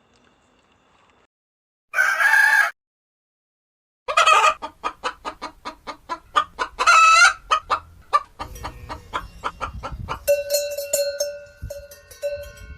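Chickens: one short loud squawk about two seconds in, then rapid clucking with another loud call midway. A few steady ringing tones join near the end.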